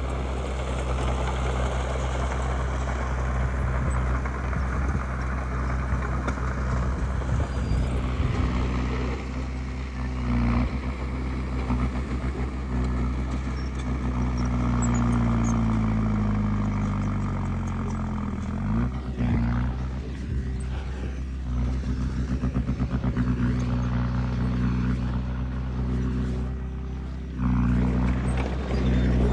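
Diesel engine of heavy earthmoving machinery running. About halfway through, its pitch slides down for a few seconds, then rises sharply back, and it gets louder near the end.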